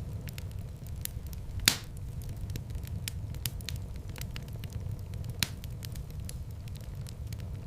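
Wood fire burning in a fireplace: a steady low rumble of flames under constant small crackles, with two sharp louder pops, about two seconds in and again about five and a half seconds in.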